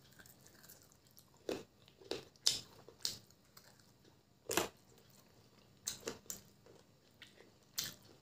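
Close-up chewing and mouth sounds of a person eating chicken biryani by hand: a string of short, sharp wet clicks, about nine in all, spaced irregularly.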